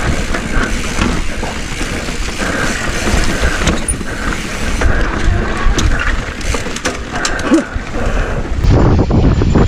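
Mountain bike riding down a rocky trail: tyres rolling over rock and dirt and the bike rattling, with sharp clicks and knocks. Wind rumbles on the helmet camera's microphone and grows louder near the end.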